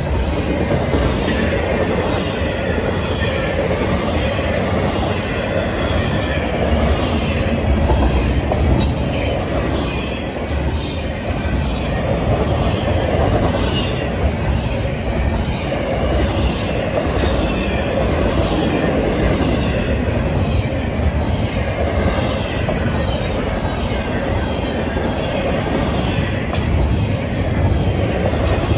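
Double-stack intermodal freight train rolling past: the steady rumble and clatter of its wagon wheels on the rails, with faint high wheel squeal now and then.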